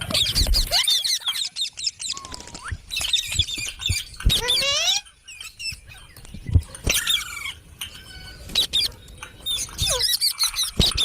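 Parrots calling with rapid, high-pitched chirps and squeaks, several at once, in bursts with a short lull in the middle. A few soft knocks come between the calls.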